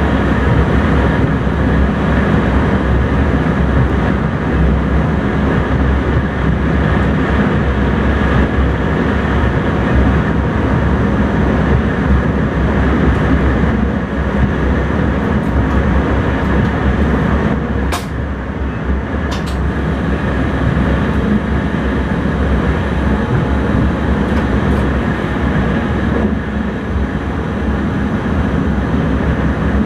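Intercity train running, heard from inside the driver's cab: a steady low rumble with faint steady tones. Two sharp clicks come a little past the middle, about a second apart.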